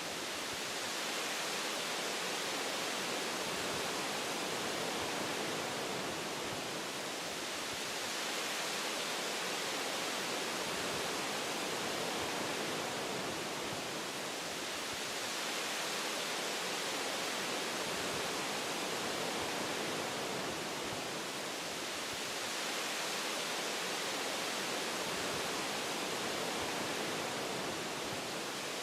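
Wind rushing through forest branches: a steady, even hiss that slowly swells and eases every several seconds.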